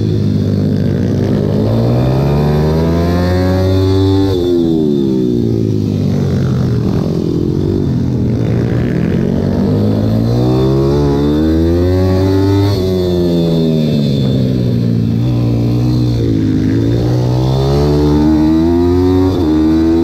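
Pit bike's single-cylinder engine heard from on board, revving up and down as the bike accelerates and slows. The pitch drops sharply about four seconds in, climbs steadily to around twelve seconds, falls away, then climbs again near the end.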